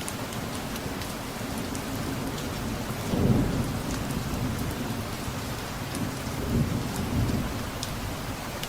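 Steady rain with scattered drips, and distant thunder rumbling low about three seconds in and again a few seconds later.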